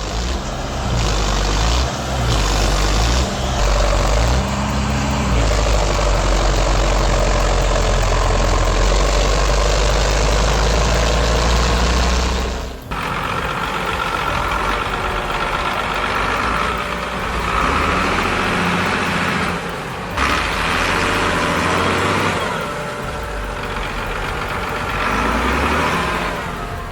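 Tractor engine working hard under load, its pitch rising and falling as the stuck tractor claws through mud. About 13 seconds in it cuts off abruptly and a different recording of engine noise follows, swelling and easing several times.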